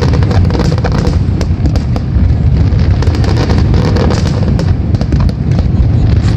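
Aerial fireworks display: rapid, overlapping bangs and crackles over a continuous low rumble of shell bursts.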